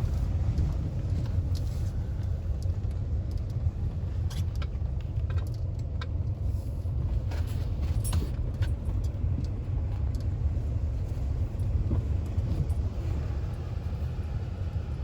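Car heard from inside the cabin, engine and road noise making a steady low rumble as it drives at low speed, with scattered light ticks and clicks over it.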